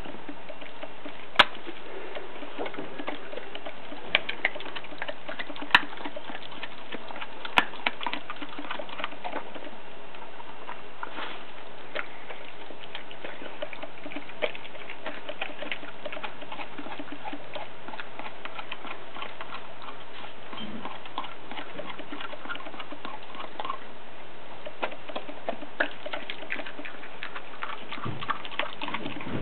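A young Groenendael (Belgian shepherd dog) chewing raw meaty bones, a steady run of small crunching crackles broken by a few sharp bone cracks in the first eight seconds.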